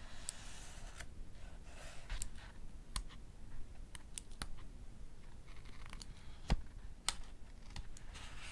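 A mechanical pencil being clicked to push out its lead: a run of sharp single clicks at uneven intervals. Soft paper rustling from paperback pages being turned sits between them.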